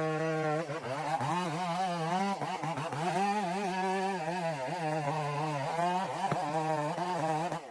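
Chainsaw running while cutting into a large log, its engine pitch wavering up and down as it bogs and recovers under load.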